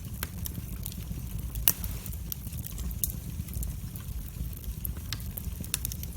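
Wood fire burning in a fireplace: scattered sharp crackles and pops over a steady low rumble, with one louder pop about one and a half seconds in.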